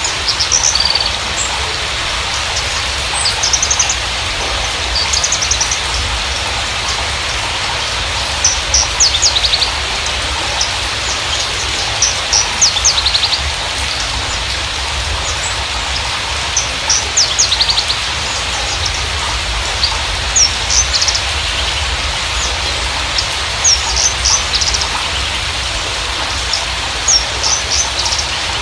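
Javan bushlark (Mirafra javanica parva) singing short phrases of rapid high chirps and trills every few seconds, over a steady hiss.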